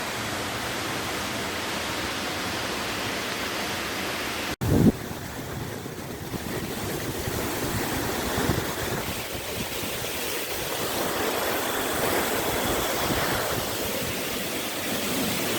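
Steady rush of falling water from a waterfall. About four and a half seconds in it is broken by a brief dropout and a short thump.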